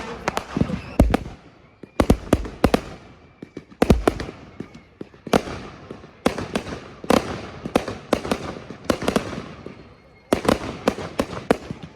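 Aerial fireworks bursting in a display: loud sharp bangs in quick clusters, several a second at times, each trailing off in an echo.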